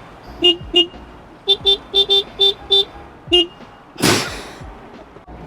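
A vehicle horn tapped in quick short beeps of one steady pitch, about nine in two fast runs. Then one loud rushing burst about four seconds in, fading over about half a second.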